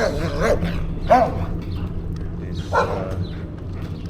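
Dogs barking at a passing bicycle, a few short barks in the first half-second, another about a second in and one more near three seconds, over a steady low rumble of riding noise.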